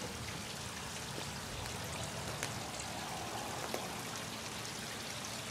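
Water from a backyard pondless waterfall running steadily, trickling and splashing over rocks and under a log, with a few faint drips.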